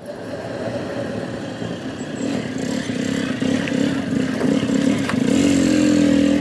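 An engine or motor running, getting louder, its pitch rising near the end.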